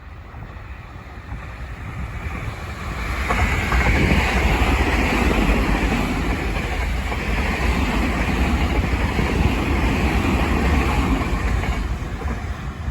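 An electric commuter train passing close by: the rumble and wheel noise swell over the first few seconds, stay loud for about eight seconds, then die away near the end.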